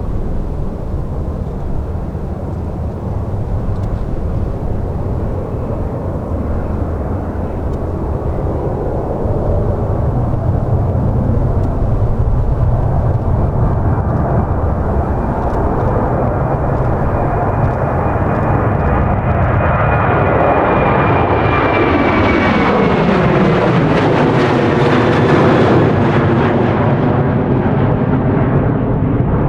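Boeing 737-800 jet's CFM56-7B turbofan engines at takeoff power, a rumble that grows steadily louder as the jet comes closer and goes by. A high whine slides down in pitch as it passes.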